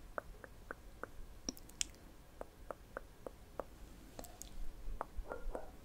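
Close-miked ASMR mouth sounds: soft, wet clicks and smacks, irregularly spaced and coming a little thicker near the end.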